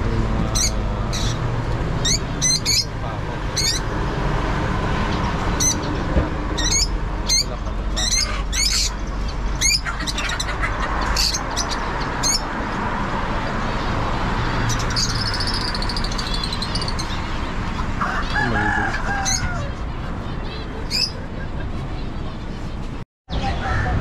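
Caged birds chirping and calling: many quick, high chirps through the first half, then a longer high call and a lower call later on, over a steady background hum.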